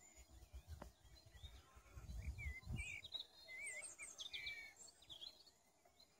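Faint songbirds chirping and warbling in quick, twisting high phrases, busiest in the middle of the stretch, over a low uneven rumble on the microphone around two seconds in.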